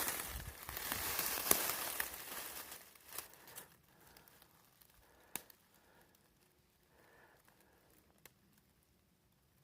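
Close rustling and crackling noise for about three seconds, then fading to faint scattered clicks.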